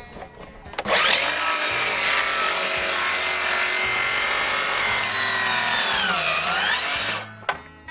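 Electric power saw cutting through a wooden board for about six seconds. Its motor pitch sags under load near the end of the cut, then recovers before the saw stops abruptly.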